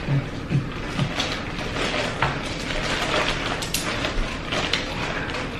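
Snow crab legs being cracked and picked apart by hand, a dense run of sharp crackling clicks from the shells.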